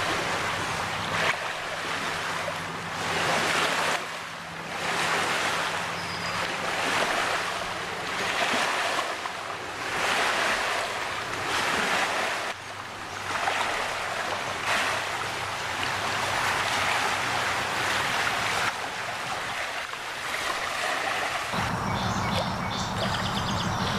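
Outdoor wind and water noise, a hiss that swells and fades every second or two. A faint low hum sits under it at the start and comes back near the end.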